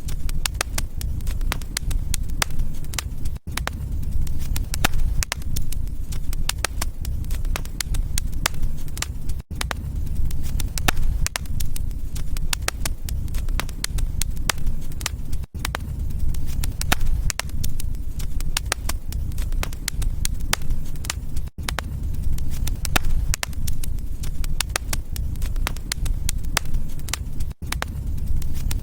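Wood fire burning in a fireplace: a steady low rumble with dense, irregular crackles and pops. A very brief dropout in the sound recurs about every six seconds.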